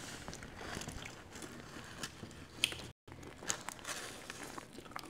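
Quiet eating sounds close to the microphone: soft bites and chewing of fried food with small clicks and crackles, broken by a split-second gap of total silence about three seconds in.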